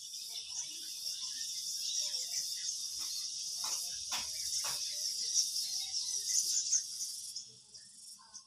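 Steady high-pitched chirring of insects, with a few sharp clicks around the middle.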